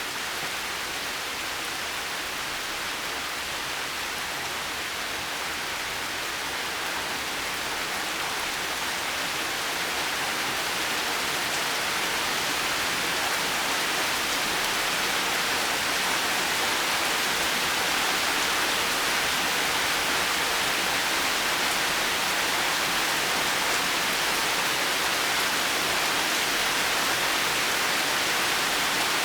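Heavy rain falling steadily, an even hiss that swells a little louder partway through.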